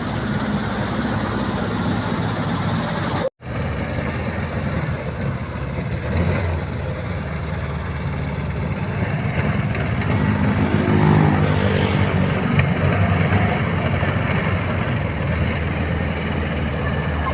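Volkswagen Beetle engine running steadily, its note rising and getting louder for a few seconds about ten seconds in, then settling again. The sound cuts out completely for an instant a few seconds in.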